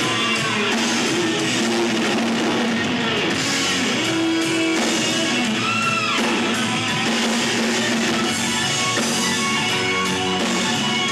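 Live rock band playing, with electric guitar over a drum kit; one note bends up and back down about six seconds in.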